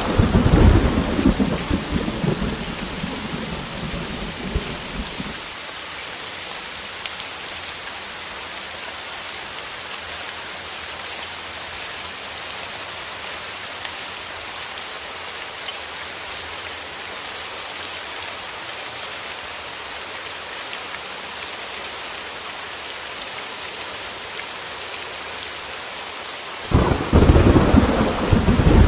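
Heavy rain falling steadily, with a rumble of thunder fading out over the first five seconds or so and a new thunderclap breaking near the end.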